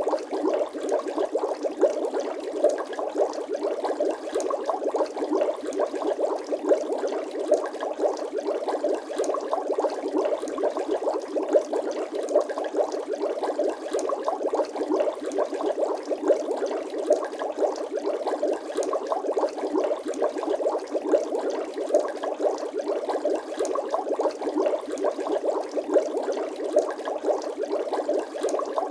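Bubbling water sound effect: a steady, dense stream of small bubble pops with no deep tones, unchanging throughout.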